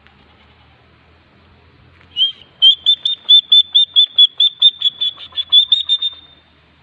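A bird calling: after a short quiet, a fast, even series of about twenty short, high notes, roughly five a second, lasting about four seconds before it stops.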